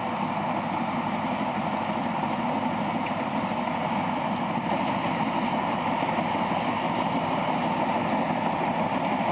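Heavy diesel machinery running steadily, an even, unbroken engine noise.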